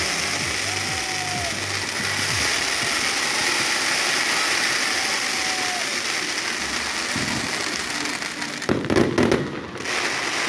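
Fireworks going off in a continuous dense crackle, with a cluster of louder bangs near the end.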